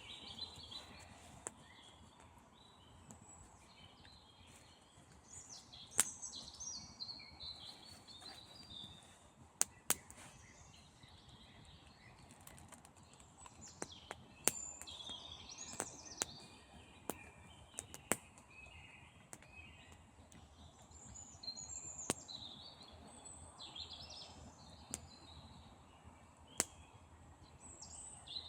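Campfire crackling with scattered sharp pops, over a steady run of short, high chirping calls from the surrounding night.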